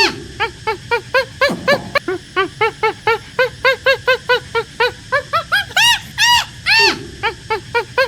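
Animals calling: a rapid, overlapping run of short, pitched yelps or squeals, several a second, with a few longer, louder calls among them.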